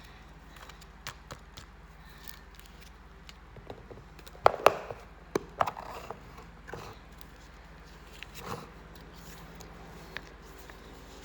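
Hands handling a package being unboxed: scattered light clicks and taps, with a few sharp knocks about four and a half to six seconds in, over a steady low hum.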